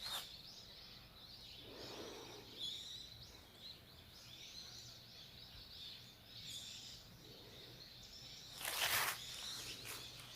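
Small songbirds chirping and calling again and again in short, high twittering phrases, with a brief louder rustle about nine seconds in.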